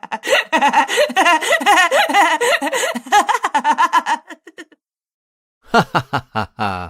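Human giggling laughter sound effect: rapid, pitch-wavering bursts of laughing that stop about four and a half seconds in. After a second's silence, a different short effect starts with a few quick pitched strokes.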